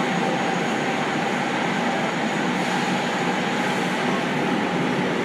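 Seibu 6000 series electric train (Hitachi GTO VVVF) running in a subway tunnel, heard inside the passenger car: a steady rumble of wheels and running gear with a faint steady whine, speed holding even.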